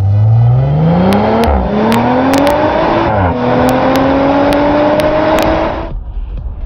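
The 2018 Audi RS5's twin-turbo V6 engine accelerating hard in manual mode. The revs climb steadily through the gears, with two quick upshifts (about one and a half and three seconds in), then climb again until the sound cuts off abruptly near the end.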